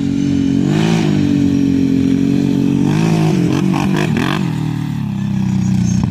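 Quad (ATV) engine revving under throttle, its pitch climbing about a second in and again around three to four seconds in, then settling lower near the end.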